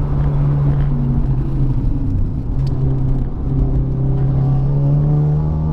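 Honda Civic Type R (FK8) turbocharged 2.0-litre four-cylinder engine running under load on track. It eases off briefly about two and a half seconds in, then climbs in revs again toward the end.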